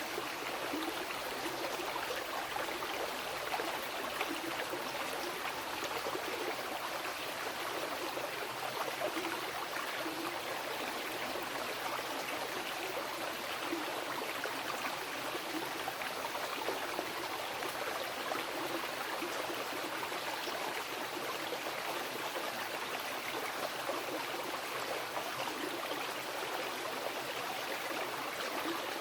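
Mountain river water rushing and gurgling over rocks, a steady, unbroken flow.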